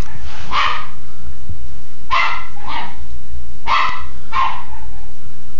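Maltese puppy barking in short, high-pitched yaps during play, five barks with the last four in two quick pairs.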